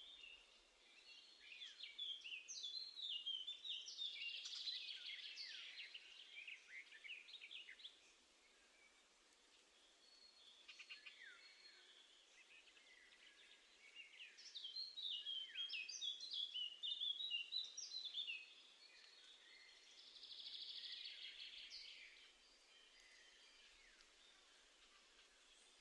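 Small songbirds singing faintly: two long phrases of quick, high twittering notes, one at the start and one about halfway through, over a low steady hiss.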